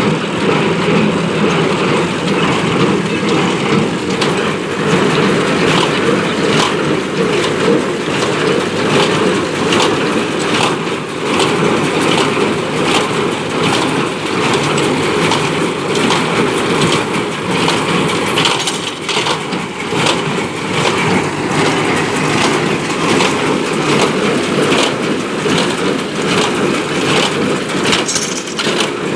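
Ford 5000 tractor engine running under load as it drives a New Holland BC5060 small square baler, with the baler's mechanism clattering in a steady run of regular knocks.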